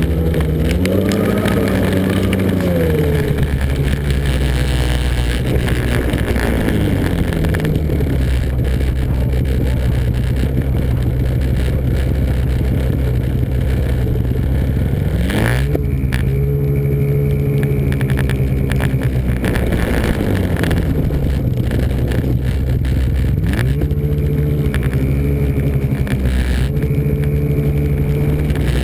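Snowmobile engine running under way, its pitch rising and falling several times as the throttle is opened and eased off.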